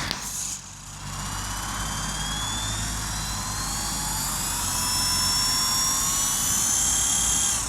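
Electric rotor motors of a small remote-control aircraft spinning up. They make a high whine of several tones that rises slowly in pitch over several seconds and drops away near the end.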